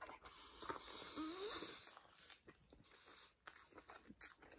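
Faint chewing of soft cinnamon bread, with small wet mouth clicks and breathing through the nose, and a short rising hum about a second in.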